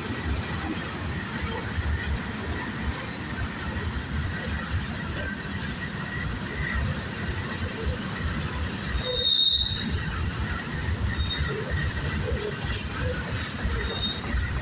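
Norfolk Southern freight train rolling past with a steady low rumble. A high metallic wheel squeal rings out for about half a second about two-thirds of the way in, with two shorter squeals after it.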